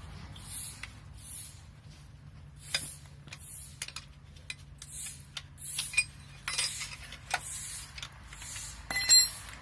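Hand tools working a 13mm bolt on an engine: scattered clicks, scrapes and clinks of a socket and ratchet on metal, with a sharper metallic clink near the end. A faint steady hum runs underneath.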